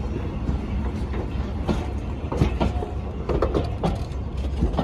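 Railway passenger coaches rolling slowly past. Their wheels click and knock irregularly over the rail joints above a steady low rumble.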